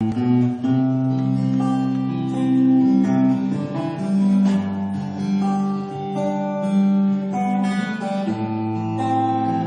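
Acoustic guitar playing an instrumental introduction: strummed chords changing about once a second.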